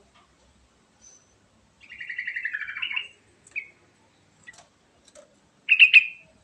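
Yellow-vented bulbul (trucukan) singing: a phrase of quick rippling notes falling in pitch over about a second, a few short single notes, then a brief louder phrase near the end.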